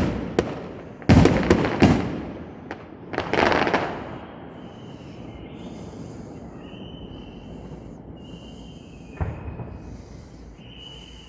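Fireworks going off: several sharp bangs in the first two seconds, a crackling burst about three seconds in, then quieter with one more bang near nine seconds.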